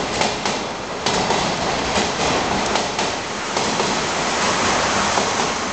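Blue 14 series passenger coaches rolling past as the train departs, a steady rolling rumble of wheels on rail broken by sharp clacks from the wheels crossing rail joints, about one every half second to a second.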